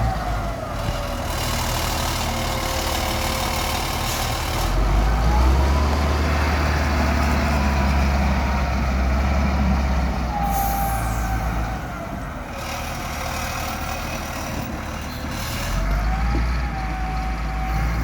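Heavy diesel engine working at a sand-loading site. Its low rumble swells and eases several times, and a whine falls and rises with it as the revs change. About ten seconds in there is a short, high hiss.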